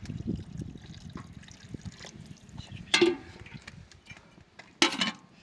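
Water splashing and trickling, then two loud sharp knocks about three and five seconds in, the first with a short ring.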